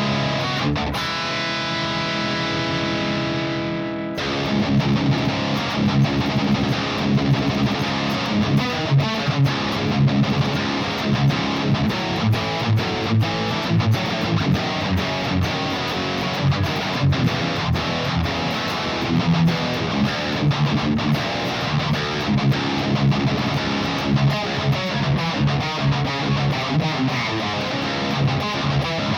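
High-gain electric guitar through a Mesa TC-100 amp's blue channel, pushed by an EQ/boost pedal and heard through a 2x12 cabinet impulse response. A distorted chord rings out for about four seconds, then gives way to fast, tight, rhythmic metal riffing.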